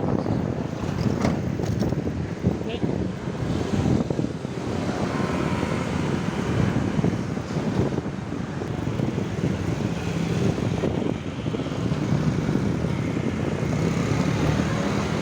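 Road and traffic noise heard while riding along a street: a steady low rumble of passing vehicles mixed with wind on the microphone.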